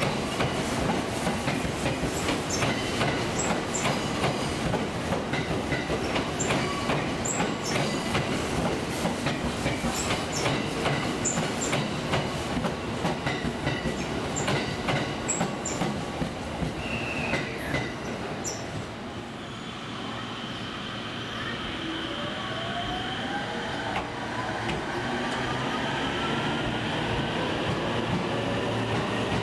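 A train's wheels clicking and rattling over rail joints and points. The sound eases off about two-thirds of the way through, and near the end a whine rises steadily in pitch as a train picks up speed.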